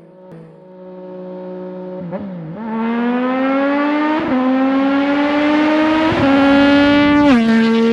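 Yamaha MT-09's three-cylinder engine through an M4 RM1 full carbon exhaust under way. The rider starts off the throttle, then the engine pulls with a slowly rising pitch and a couple of brief blips, and the pitch drops a step about seven seconds in.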